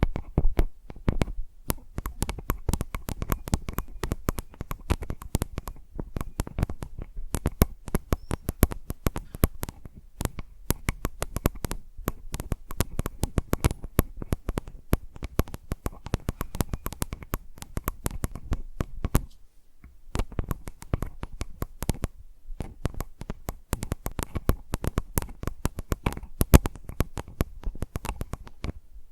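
Fingertips and nails tapping rapidly right on a recorder's microphones (a Zoom H4n), each tap a sharp click with a low thud. The tapping thins out briefly about two-thirds of the way through.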